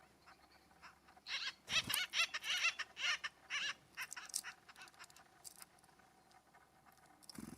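A bird giving a quick series of harsh, raspy calls, about eight in two and a half seconds, then fainter scattered calls.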